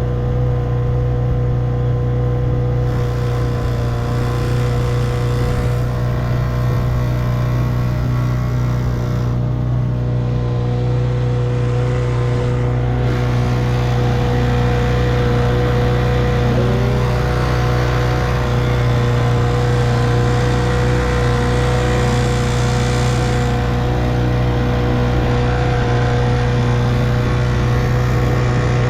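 1958 Evinrude 3 hp two-stroke twin outboard motor running steadily at constant throttle, a continuous even drone that does not change speed.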